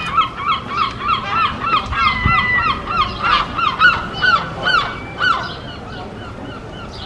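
A gull calling: a long run of rapid, repeated yelping calls, about four a second, louder and more ragged partway through and fading near the end.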